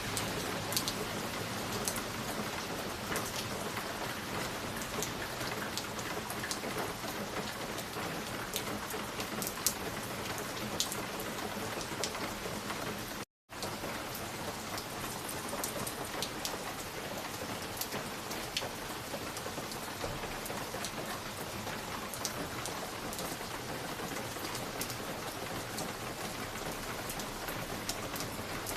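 Wood fire crackling in a fireplace: a steady hiss dotted with sharp crackles and pops. The sound cuts out completely for a split second about 13 seconds in.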